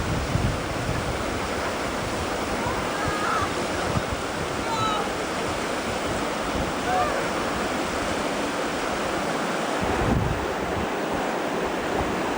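Steady rushing noise of river water, with wind buffeting the microphone. A few faint, short high calls rise over it.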